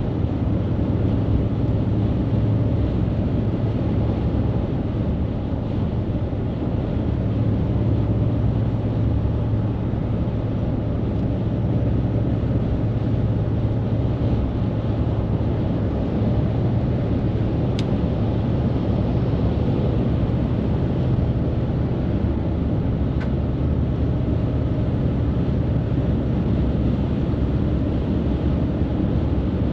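Steady low rumble of highway traffic with heavy trucks running past.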